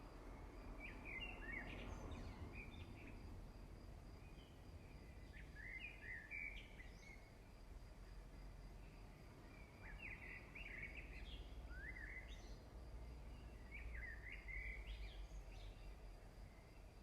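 A bird singing faintly in short chirping phrases that recur every couple of seconds, over a steady low rumble.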